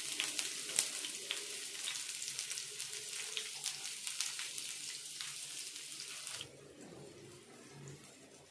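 Onions sizzling in hot oil in a frying pan, with frequent crackling pops. The sizzle drops away sharply about six seconds in.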